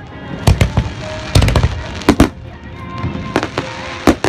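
Aerial fireworks bursting: a rapid run of about a dozen sharp bangs, several coming in quick clusters of two or three.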